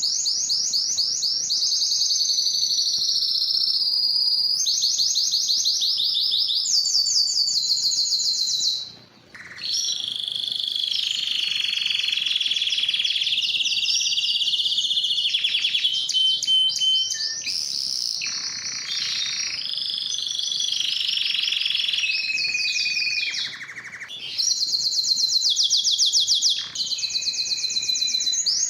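Spanish timbrado canary singing: a continuous song of fast trills and rolling, pitched phrases that change every second or two, with a short break about nine seconds in.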